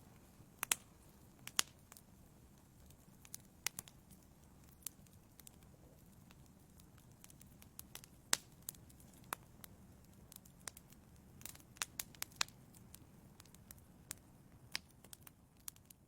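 Wood fire burning in a fireplace: a low steady rumble with irregular sharp crackles and pops from the burning logs.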